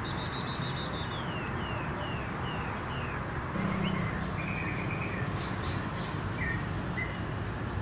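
City ambience: a steady hum of distant street traffic with birds chirping over it, a run of quick falling chirps in the first three seconds, then scattered chirps.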